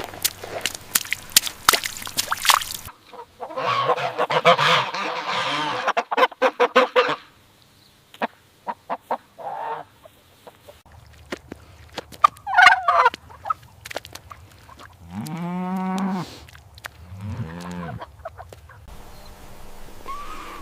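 Geese honking, with scattered clicks and rustling across several cut-together clips. Two loud, arching honks come late on.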